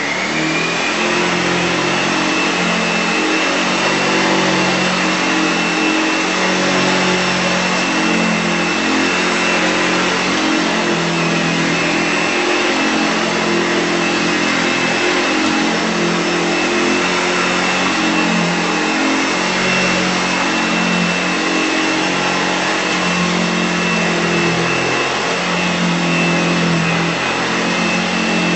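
Hoover Model 925 upright vacuum cleaner's 360-watt motor running steadily: a high whine that finishes climbing to full speed about a second in, over a lower, slightly wavering hum.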